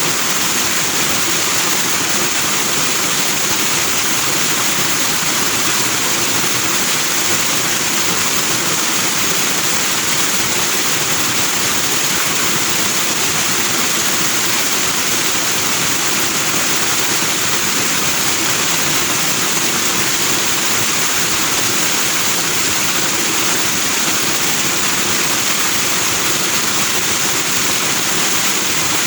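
Forest stream rushing over rocks into white foam, a steady even rush of water with no change.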